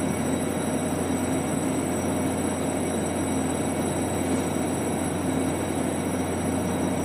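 Train running, a steady continuous rumble with a low hum underneath.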